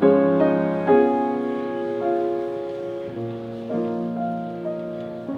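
Piano playing a slow, gentle piece: notes and chords struck one after another and left to ring and fade, a new one every half second to a second.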